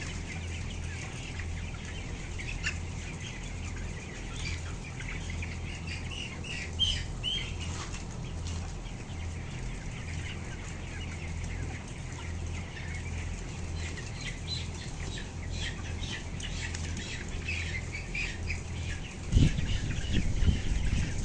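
Broiler chickens giving many short, high peeping and clucking calls over a steady low hum. Near the end, louder bumping and rustling join in.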